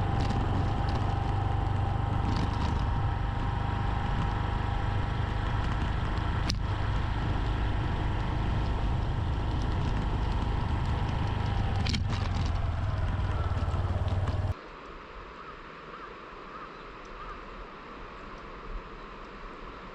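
Honda Super Cub's small single-cylinder engine running steadily with a low drone. About two-thirds of the way in it cuts off abruptly to a much quieter, even outdoor hiss.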